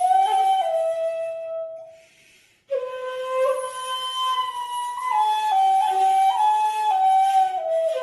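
Solo flute playing a slow, calm melody of long held notes. The first phrase fades out about two seconds in, and after a short pause a new phrase begins and steps down through several long notes.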